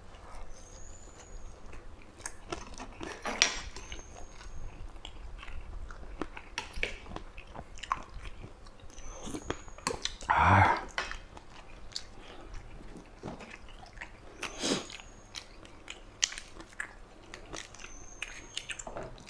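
Close-miked chewing and biting of eel curry: wet mouth sounds with scattered small crunches and clicks, and one louder mouth sound about ten seconds in.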